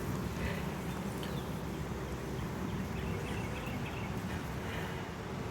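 Honey bees humming around an open hive during a frame inspection: a steady low hum with no sharp events.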